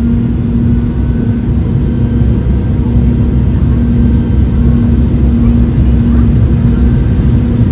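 Cabin noise inside a Boeing 717, heard from near its rear-mounted Rolls-Royce BR715 turbofans: a steady, loud engine drone with a deep rumble and a constant low hum.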